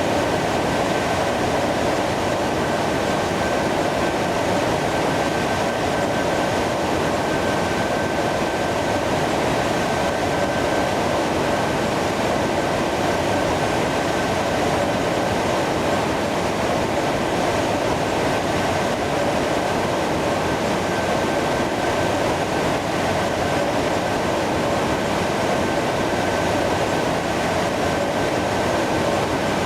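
Jet aircraft engines running steadily, a constant rushing noise with a thin high whine held on one pitch.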